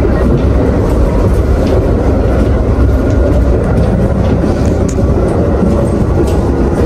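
Steady low rumble of a moving Amtrak passenger train, heard from inside the car, with a few faint light clicks.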